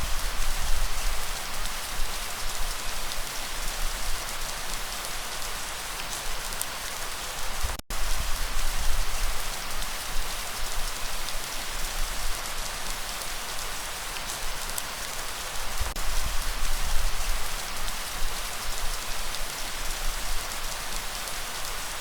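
Steady light rain: an even hiss of falling rain with scattered drop ticks and a low rumble underneath. The sound cuts out for an instant about eight seconds in.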